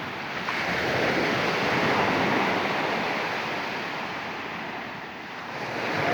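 Sea waves washing in on the shore: a broad rush that swells about half a second in, eases away, then builds again near the end.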